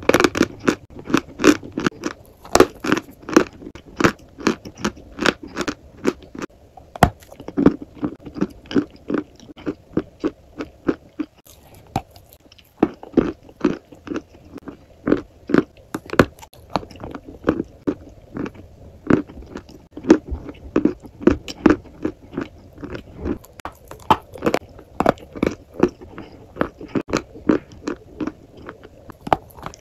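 Close-miked biting and chewing of a crumbly, chalk-like white block coated in powder: crisp crunches come a few per second, with a short lull about eleven seconds in.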